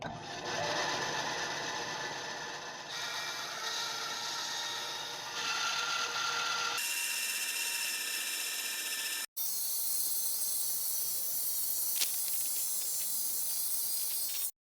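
Woodworking tool noise in short segments that cut abruptly from one to the next: a steady rasping, mechanical sound with faint steady tones, changing character about three, five and a half and seven seconds in, with a brief dropout a little after nine seconds.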